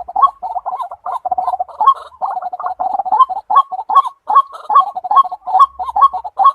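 White-breasted waterhen calling: a fast, rhythmic, unbroken series of harsh 'kru-ak' notes, about two to three a second.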